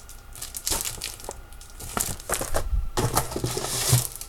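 Papers and packaging from an unboxed kit being handled, rustling and crinkling in a run of quick crackles.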